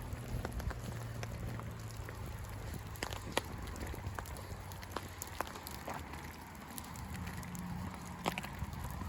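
Rain falling, with scattered raindrops ticking sharply on nearby surfaces over a steady low rumble.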